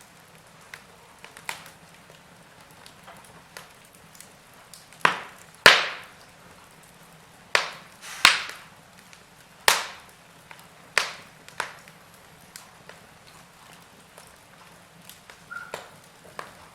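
Log fire crackling: irregular sharp pops and snaps, with a run of louder ones from about five to ten seconds in.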